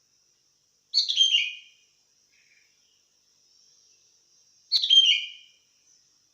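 Sooty-headed bulbul (kutilang) singing: two short, bubbly phrases of falling notes, about a second in and again near the five-second mark, over a faint steady high insect buzz. A sharp click comes as the second phrase starts.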